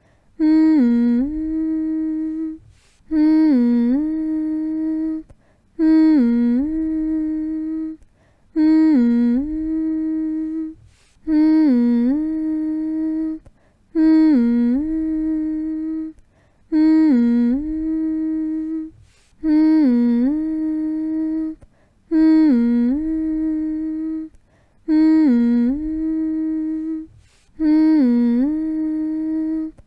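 A person humming with closed lips, one long steady note over and over, about eleven times. Each hum lasts a little over two seconds and opens with a quick dip in pitch before settling onto the note, with a short pause between hums.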